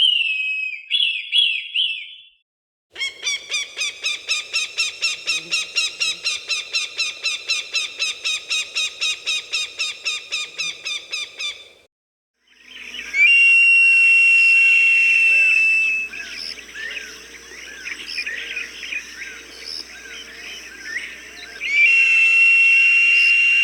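Recorded hawk calls: a short call of falling notes, then a long run of sharp repeated notes, about four a second for some nine seconds. After a brief pause come long, high, steady whistles, with smaller birds chirping in the background.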